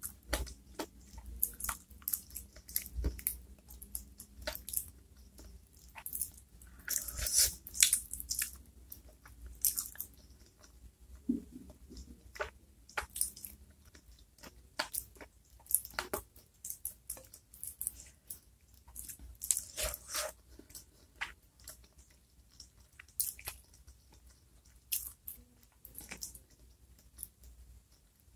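Close-miked eating of sauce-covered chicken feet: wet chewing, biting and lip smacks as irregular clicks and smacks, with a denser cluster about seven seconds in.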